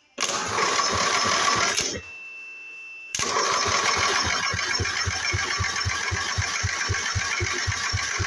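Riding mower's Briggs and Stratton engine being cranked over by its electric starter on a first start attempt after a carburetor rebuild. A short crank of about two seconds, a pause, then from about three seconds in a longer steady crank with an even beat of about four pulses a second.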